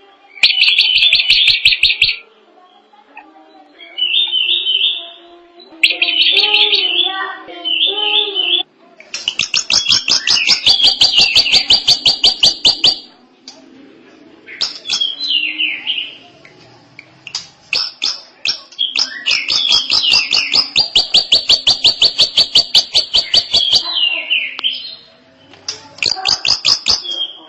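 Drongo singing a long, varied song: phrases of fast, rapidly repeated buzzy notes and rattles alternating with shorter whistled and slurred notes, with brief pauses between phrases.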